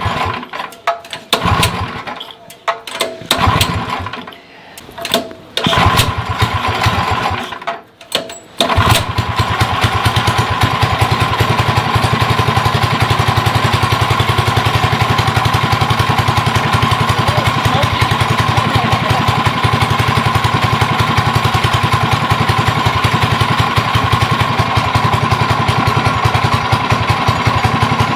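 Go-kart's small engine, primed with gas in the carburetor bowl and starting fluid, sputters in short irregular bursts, then catches about nine seconds in and keeps running with a fast, even firing rhythm.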